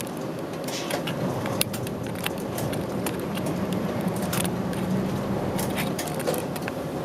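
Route bus heard from inside the cabin: the diesel engine drones steadily, growing louder and a little higher in pitch a few seconds in before easing off near the end. Frequent small rattles and clicks from the bus body and fittings run through it.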